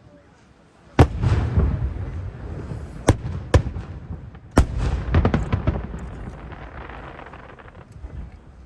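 Aerial firework shells bursting high overhead: a loud bang about a second in, then three more sharp bangs over the next few seconds, with crackling and a long fading rumble between and after them.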